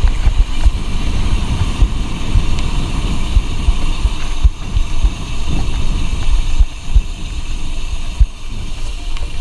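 Wind buffeting the microphone of a bicycle rider going fast downhill: a loud, uneven low rumble with rough thumps.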